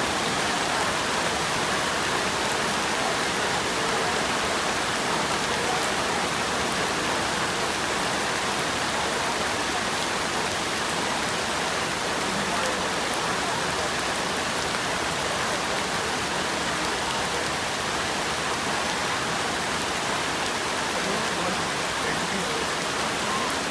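Steady rain falling, an even hiss of drops without pause.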